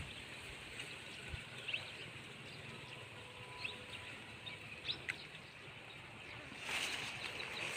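Quiet outdoor ambience with a steady background hiss and a few short, high bird chirps scattered through it; the hiss swells near the end.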